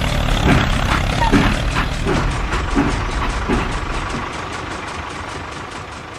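Tractor engine running with a fast, regular knocking, fading steadily over the last few seconds.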